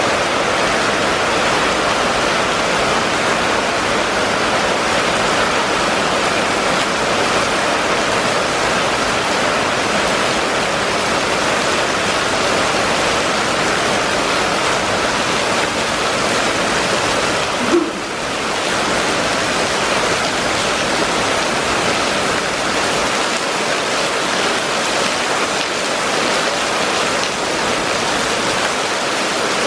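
Steady downpour on a paved street covered by a sheet of runoff: an even hiss of splashing rain. A short, sudden sound breaks in once, a little past halfway.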